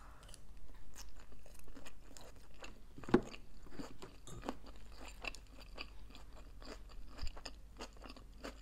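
Chewing a mouthful of vegetarian sushi roll: a run of small clicks and soft crunches, with one louder click about three seconds in.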